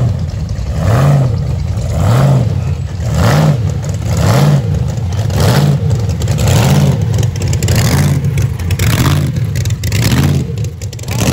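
Supercharged V8 of a hot-rod pickup running through open side exhaust pipes, its engine note rising and falling about once a second in a steady, lumpy rhythm.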